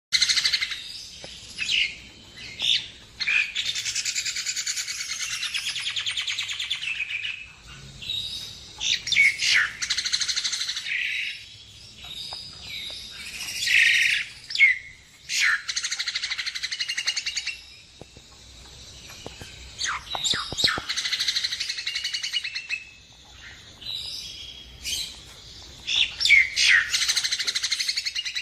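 Nias hill myna singing: long, rapid chattering phrases lasting several seconds, broken by sharp, loud whistled notes and clicks.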